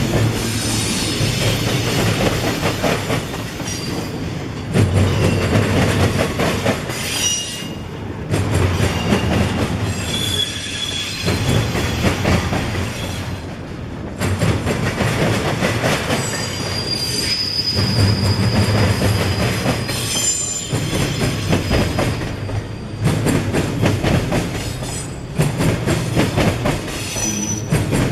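Freight train cars rolling past, steel wheels clattering rhythmically over the rail joints, with several brief high-pitched wheel squeals.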